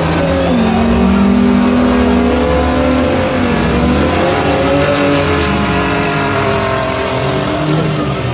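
Several Baja race trucks' engines running and revving together, their pitches rising and falling as the drivers accelerate and lift off.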